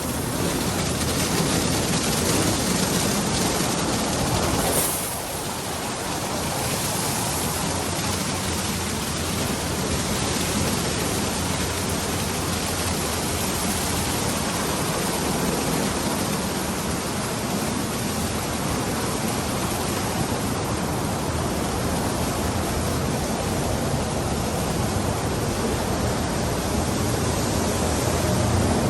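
Daifuku TWINFECT FORCE gantry car wash running: a loud, steady rushing noise of the machine at work, dipping briefly about five seconds in.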